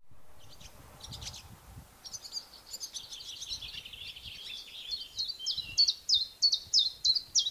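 A songbird singing: quick twittering from about two seconds in, then a run of loud, evenly repeated notes about three a second, cut off suddenly at the end.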